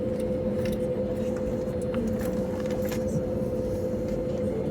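Steady cabin hum of an Airbus A320neo with its engines running: an even drone with a constant whine, and scattered light clicks and rattles.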